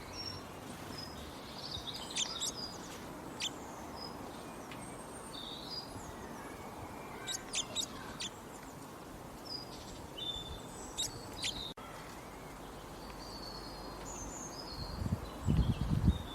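Several small birds chirping and whistling in short calls, some sharp and quick, over a steady outdoor background hiss. Near the end comes a short burst of loud, low rumbling thumps.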